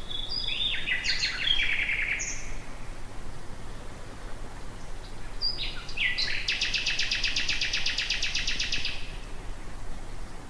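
Nightingale singing: two phrases, the first a quick jumble of notes near the start, the second a few seconds later ending in a long, very rapid trill of repeated notes.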